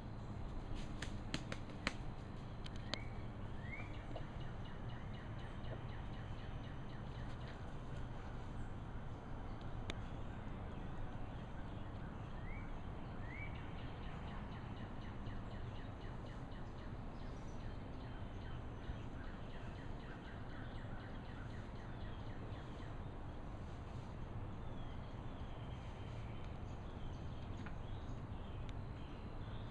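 Short rising bird chirps, a pair a few seconds in and another pair nearly halfway through, over a steady low background rumble, with a few sharp clicks near the start.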